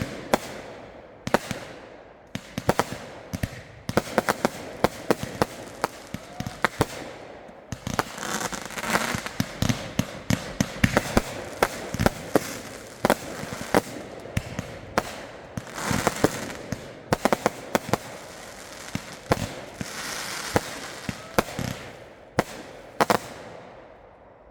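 Consumer fireworks going off in quick succession: a long string of sharp bangs, with stretches of crackling mixed in.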